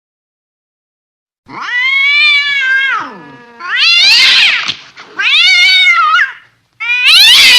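Domestic cat caterwauling: four long, drawn-out angry yowls, each rising and then falling in pitch, starting about a second and a half in after silence.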